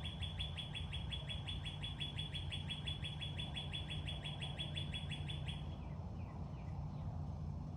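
A bird calling in a fast run of repeated high chirps, about seven a second, that stops about five and a half seconds in, over a steady low rumble.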